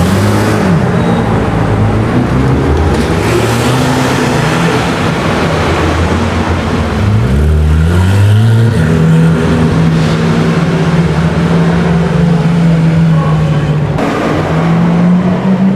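Several high-performance car engines revving and accelerating past. The revs climb sharply about seven seconds in, then one engine holds a steady note for several seconds before rising again near the end.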